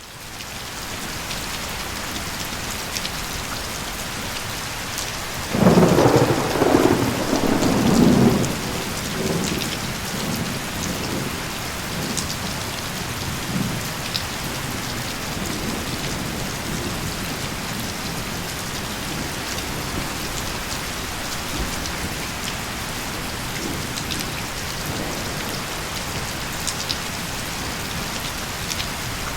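Heavy rain falling steadily, fading in at the start. About five and a half seconds in, a loud roll of thunder rumbles for about three seconds and dies away over the next few, while scattered drops tick above the rain.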